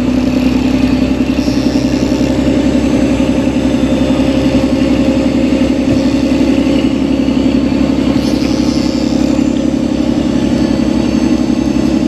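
Fishing boat's engine running steadily, a constant low hum with a fine, even pulse.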